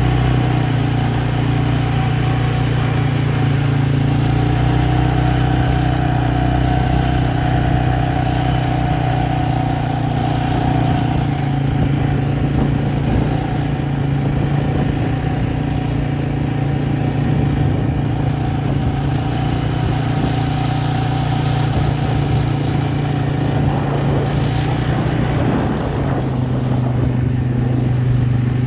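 A vehicle engine running steadily, its hum shifting slightly in pitch now and then.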